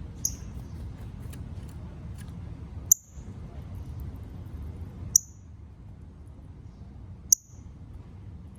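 Northern cardinal giving sharp, metallic chip calls, four single chips about two seconds apart, over a steady low background rumble.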